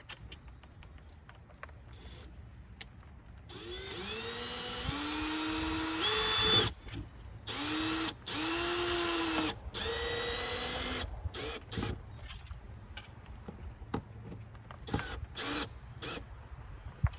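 Power drill driving screws, running in bursts that each spin up to a steady whine: one of about three seconds, then several shorter ones and a few brief blips near the end, with light handling clicks between.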